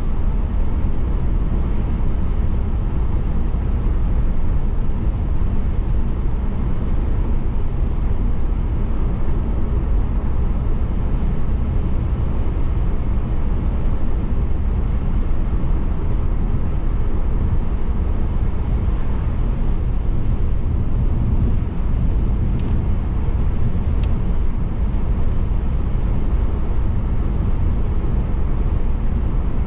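Steady road and tyre noise of a car driving, a low rumble that holds even throughout, with two faint clicks about three-quarters of the way in.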